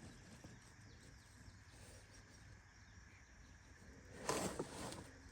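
Faint outdoor background, with a short burst of tool-handling noise about four seconds in while the oil drain bolt on a Honda Rancher 350 ATV is checked for snugness.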